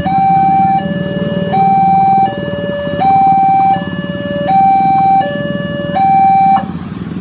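Railway level-crossing warning alarm sounding a two-tone signal, switching between a high and a low tone about every three quarters of a second over a low rumble. It cuts off abruptly about six and a half seconds in.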